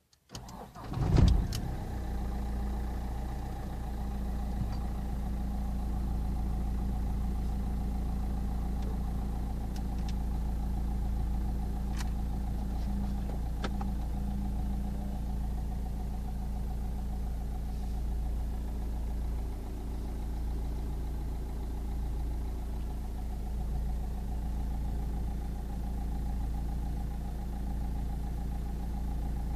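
Renault Mégane III's 1.5 dCi four-cylinder turbodiesel cranking and catching on a cold start within the first second or so, flaring briefly, then settling into a steady diesel idle.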